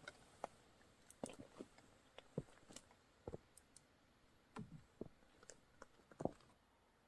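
Faint, scattered light clicks and taps, about a dozen spread irregularly over several seconds, with a slightly louder pair of knocks near the end.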